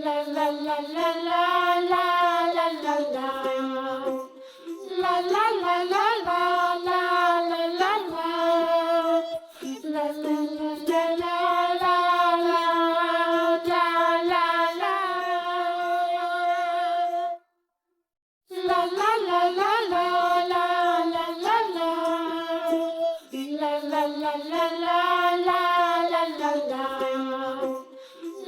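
A child-like voice singing a simple nursery melody with long held notes. It breaks off for about a second two-thirds of the way through, then goes on.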